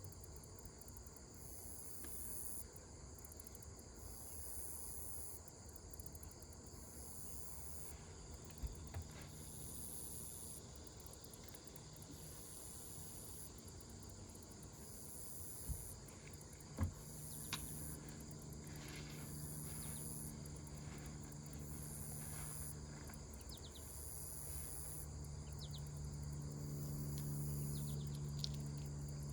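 Outdoor insect chorus, a high-pitched buzzing that swells and fades in regular pulses. A faint low hum runs underneath and grows louder in the second half, and a few sharp knocks come about a third to halfway through.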